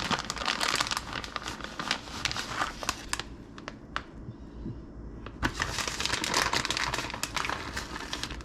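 Plastic bag of shredded cheese crinkling as it is handled, in two spells with a quieter gap in the middle.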